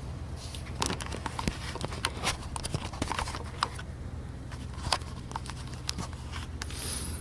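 Irregular sharp clicks and knocks of plastic dashboard parts being handled and worked loose by hand, around the headlight switch housing, over a steady low hum.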